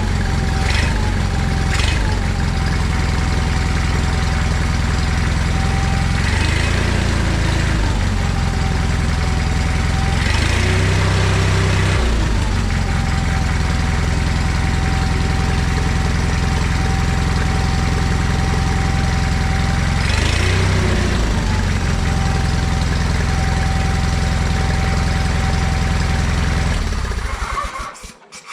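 John Deere 317 garden tractor engine running steadily right after reassembly, with no air cleaner fitted. Its speed shifts briefly three times, once held higher for a couple of seconds, and the engine shuts off near the end.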